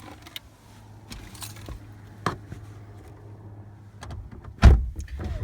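Objects being handled and put away: faint clicks and rustling, a sharp click a little past two seconds in, then one loud thump near the end, over a steady low hum.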